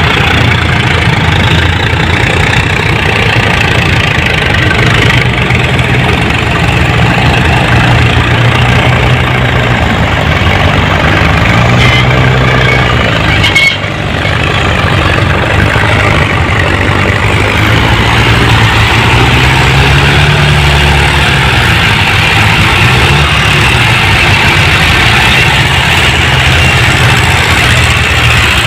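Mahindra 575 DI tractor's diesel engine running loudly and continuously. Its note rises and falls a few times around the middle and again later.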